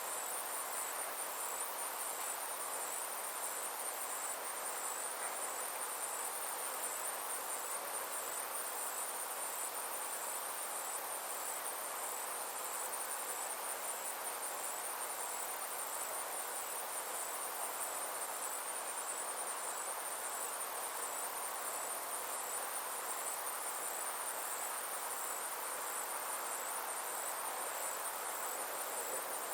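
Steady chorus of summer insects, a high, fast-pulsing trill that does not let up, over a soft, even background hiss.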